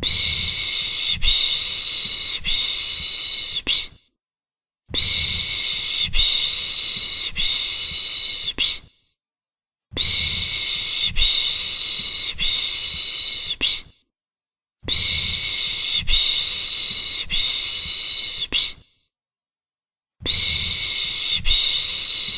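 A person's 'pış pış' shushing, a breathy 'shhh' used to lull a baby. It comes in phrases of about four seconds with a pulse roughly every second, and a pause of about a second between phrases, five times in a row.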